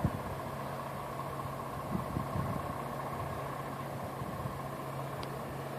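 Fire truck engine idling with a steady hum, with a few soft knocks about two seconds in.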